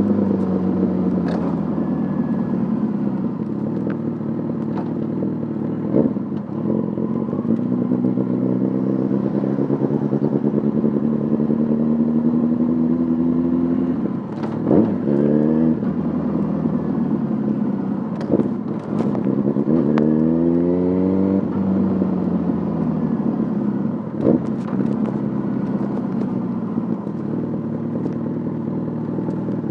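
Yamaha Fazer 600 inline-four running through a handmade exhaust as the motorcycle is ridden. The engine note rises quickly twice, near the middle and about two-thirds of the way through, and a few short sharp knocks cut in.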